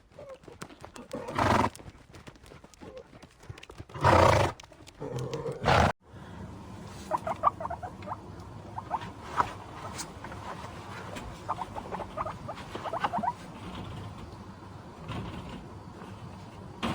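A horse making three loud short calls over the first six seconds. After a cut, quick runs of faint, high chirping calls come over a steady hiss.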